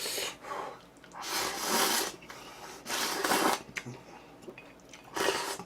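A person slurping instant cup-ramen noodles close to the microphone, three noisy slurps with short pauses between them.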